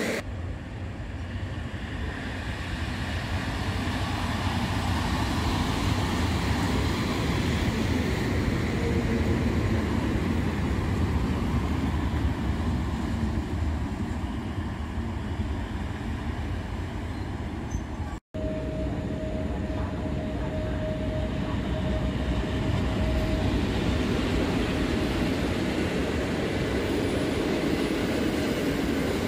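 PKP Cargo EU07 electric locomotive and its train of passenger coaches rolling through a station: a steady rumble of wheels on rails that grows louder over the first few seconds. It breaks off suddenly about 18 seconds in, then the coaches go on rolling past, with a thin steady whine for a few seconds.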